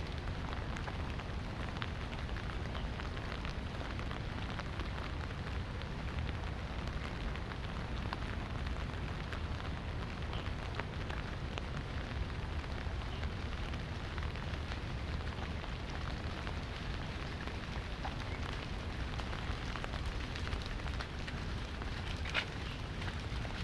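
Light rain falling steadily, a constant patter of small drops ticking on surfaces, with one sharper drop near the end.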